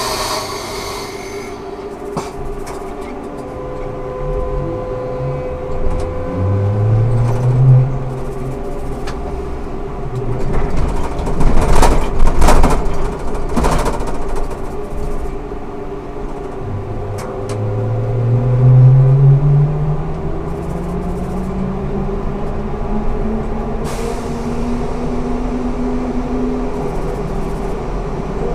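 Ikarus 280T trolleybus with GVM electric traction equipment under way, its traction motor whine rising in pitch as it accelerates: briefly about six seconds in, then in a longer climb from about seventeen seconds on. Loud rattling and knocking come through the body around twelve to fourteen seconds, over a steady hum.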